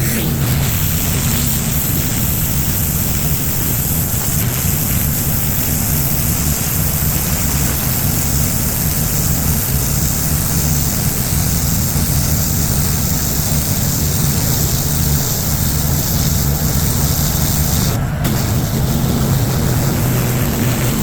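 Pressure washer running steadily, an engine drone under the hiss of high-pressure water spraying onto pavement.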